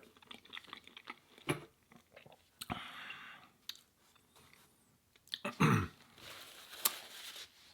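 A person chewing food close to the microphone, with scattered wet mouth clicks and crunching. A short, low vocal sound comes about five and a half seconds in.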